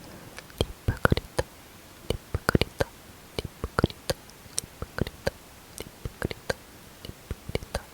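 Close-miked lip smacking: wet, sharp mouth clicks at an irregular pace of two or three a second, some coming in quick pairs.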